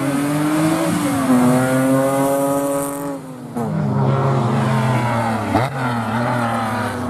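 Rally car engine at high revs under throttle, held steady, then lifting off about three seconds in before accelerating hard again through the rising revs. A single sharp crack sounds about halfway through the second pull.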